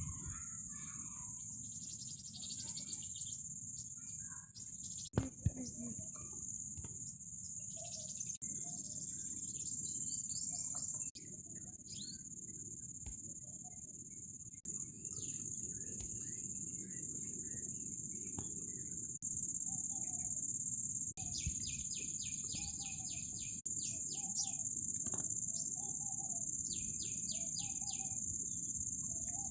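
Garden ambience: a continuous high, steady insect chirring, like crickets, with birds calling over it. There are short repeated bird calls and, in the second half, a few quick rattling trills. A low steady rumble lies underneath.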